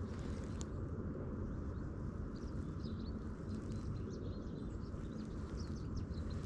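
Faint, short bird chirps scattered over a steady low background rumble of open air.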